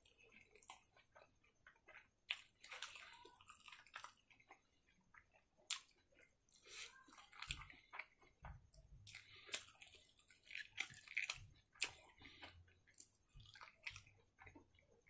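Close-miked wet chewing of rice and fatty pork eaten by hand: irregular mouth clicks, lip smacks and soft squelches, with fingers working rice on the plate near the end.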